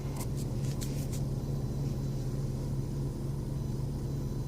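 2015 Jeep Renegade's 2.4-litre engine idling with a steady low hum, with a few light clicks in the first second.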